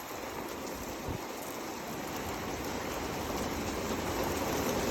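Rain pouring down in a severe thunderstorm, a steady rush that slowly grows louder.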